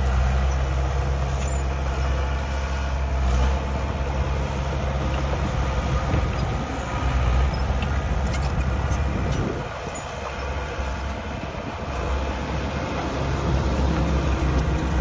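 Diesel engine of heavy earthmoving machinery running steadily, with a few light clanks. The engine note drops for a couple of seconds past the middle, then picks up again.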